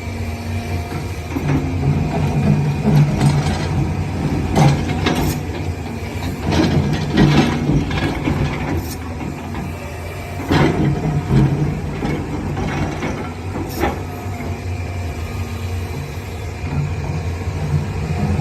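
Midsize 350G excavator's diesel engine running steadily, with several sharp metallic clanks and knocks from the machine at intervals.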